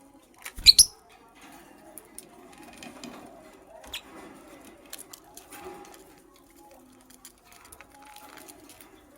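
A lovebird scratching and tapping about its cage, small clicks and rustles with a sharp knock under a second in.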